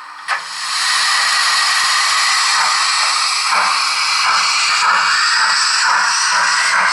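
Sound decoder of a Roco BR 01 H0-scale model steam locomotive playing a steady steam hiss. A short click comes just before the hiss starts, about a second in.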